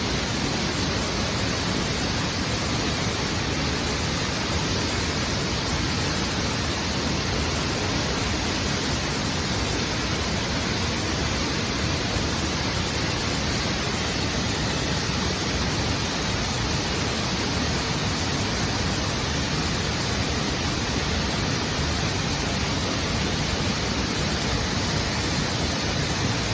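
Waterfall: falling water makes a steady, even rushing noise with no change in level.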